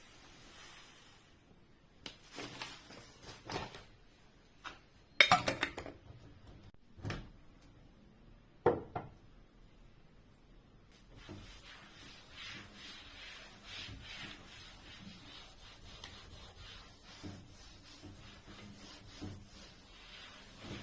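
Household objects being handled during cleaning: several knocks and clatters, the loudest about five seconds in, then a quieter run of repeated rubbing strokes on a surface.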